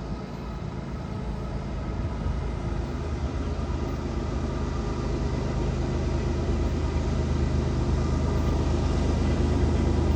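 Diesel train approaching, its locomotive engine a steady low hum that grows steadily louder.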